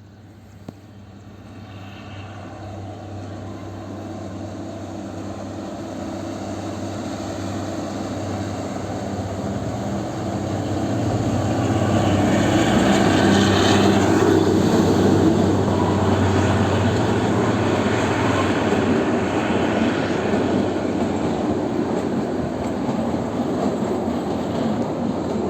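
Narrow-gauge train on the Kalka–Shimla railway approaching, its engine hum and running noise growing steadily louder, loudest about halfway through, then continuing as it runs by.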